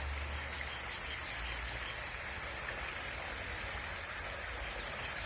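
Water splashing steadily down a backyard hardscape waterfall, an even rushing hiss with a faint low rumble underneath.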